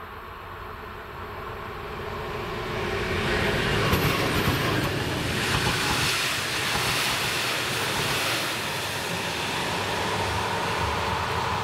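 Passenger train of coaches passing over a level crossing: the rail and wheel noise swells over the first four seconds, is loudest for about the next four, then eases a little as the train clears. A steady warning tone from the crossing rings underneath.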